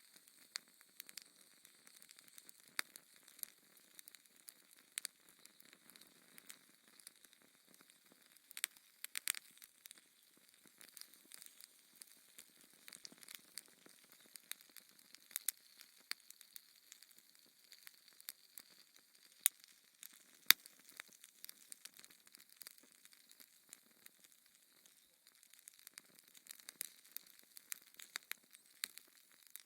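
Fire in a fireplace crackling: irregular sharp pops and snaps over a faint hiss, with two louder pops about two-thirds of the way through.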